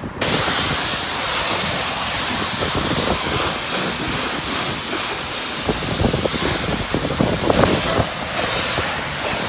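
High-pressure water spray from a self-service car wash wand, switched on abruptly just after the start and then a steady hiss of water hitting the car.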